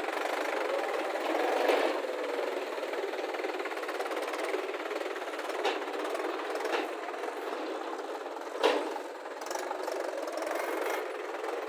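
Diesel engine of heavy machinery running steadily, with a few short knocks or clanks during the middle and later part.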